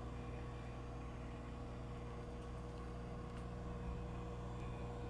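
Microwave oven running, a steady low electrical hum while the burrito heats.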